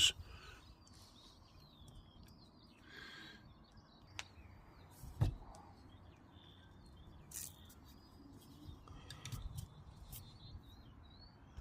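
Small birds chirping in the background, many short calls throughout, with a few soft knocks and rustles; the loudest is a single knock about five seconds in.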